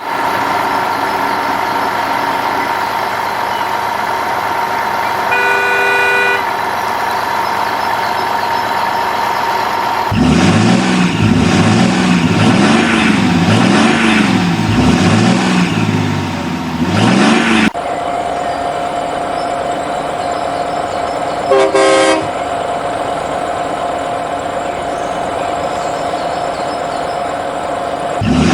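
Truck engine and horn sound effects: a steady hum with a short horn toot about six seconds in, then about seven seconds of an engine revving up and down in pitch, then a steady hum again with another short horn toot.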